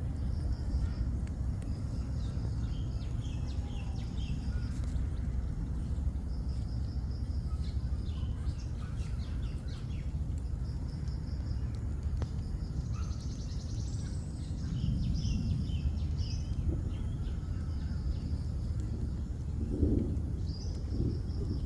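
Birds chirping with short high calls every second or two, over a steady low outdoor rumble.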